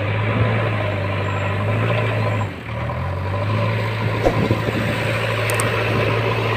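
Heavy diesel engine of earth-moving machinery running steadily, its low hum dropping briefly about two and a half seconds in, with a few short knocks about four seconds in.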